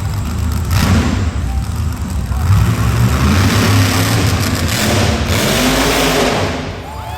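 Monster truck engine running and revving, with a short surge about a second in and a longer, louder surge from about two and a half seconds in that eases off near the end.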